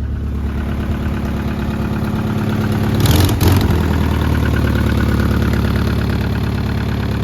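Toyota Celica's newly installed engine running at a steady idle, with a brief louder noisy burst about three seconds in.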